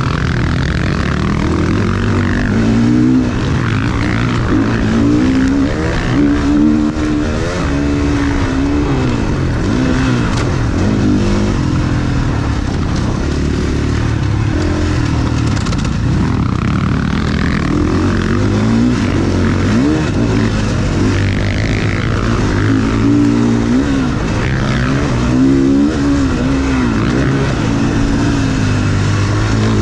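Motocross bike engine heard onboard, revving up and down over and over as the throttle is opened and closed through corners and gear changes.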